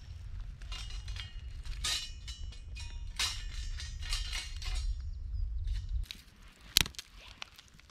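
Irregular clicks and metallic clinks of handling at a campsite, over a low rumble that stops suddenly about six seconds in, with one sharp, louder click shortly after.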